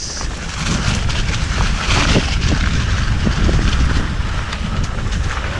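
Mountain bike rolling fast over a rough dirt trail, with wind buffeting the microphone and small knocks and rattles from the bike.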